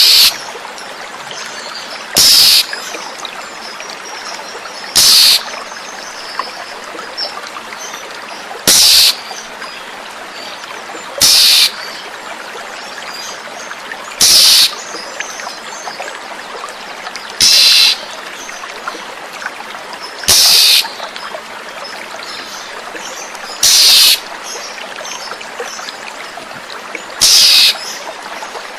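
Oriental magpie-robin (kacer) giving short, harsh calls about every three seconds, over steadily running water.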